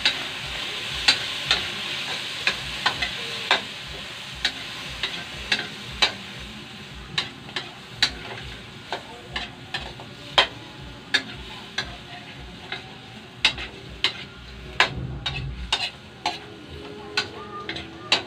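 Shrimp sautéing in hot oil in a metal wok, a frying sizzle under sharp scrapes and clicks of a spatula on the wok every half second or so as they are stirred. The sizzle is strongest at first and dies down.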